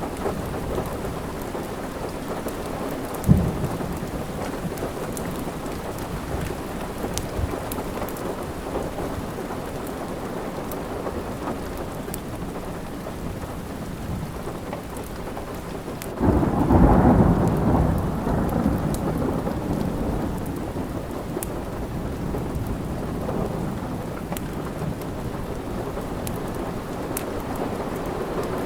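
Steady rain with scattered small crackles from a wood fire, a sharp low thump about three seconds in, and a roll of thunder swelling up about sixteen seconds in that fades over a few seconds, the loudest sound here.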